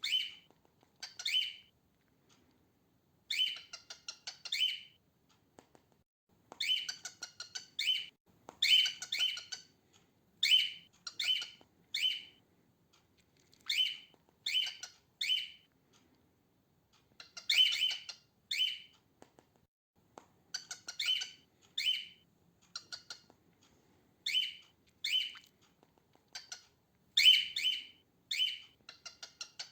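Female cockatiel calling: short, harsh chirps repeated in quick groups of two to four, with brief pauses between the groups.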